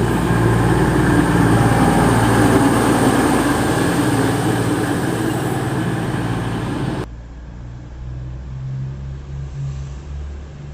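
Train running loudly through the station for about seven seconds, then an abrupt cut to a quieter, steady low engine hum.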